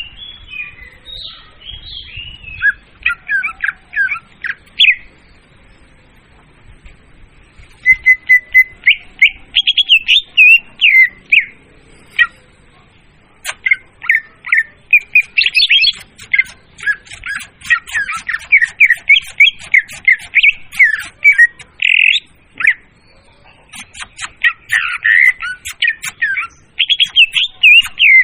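Leafbird (murai daun) song played as a lure call: a loud, rapid, varied chatter of whistled and squawky notes, coming in several long bursts separated by brief pauses.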